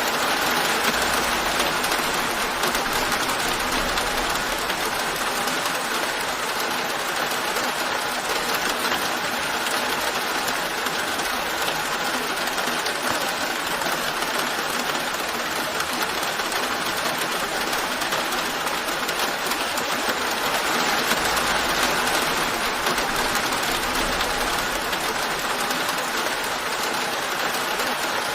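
Steady rain falling as a continuous, even hiss, with a faint low rumble twice, near the start and again about 21 seconds in.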